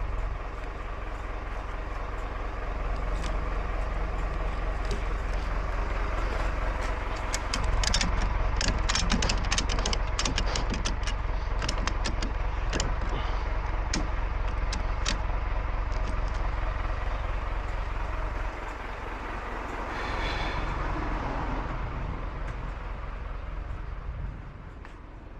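A lorry's engine runs steadily. In the middle there is a run of sharp clicks and rattles lasting several seconds, and a brief higher-pitched sound comes a little later.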